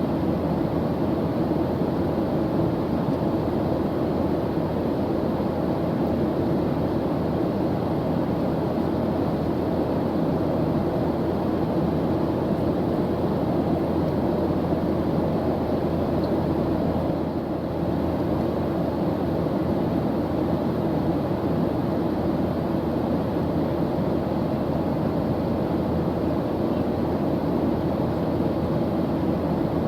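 Airplane engine noise in flight: a steady, deep, unbroken drone.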